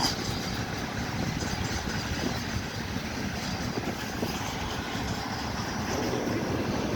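A train running past, a steady rumble of wheels on rails.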